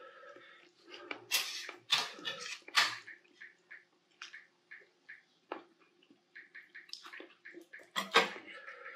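Close-miked wet chewing and lip-smacking of a person eating grilled duck and rice. A few loud wet smacks come in the first three seconds and again near the end, with an even chewing rhythm of about two to three strokes a second in between.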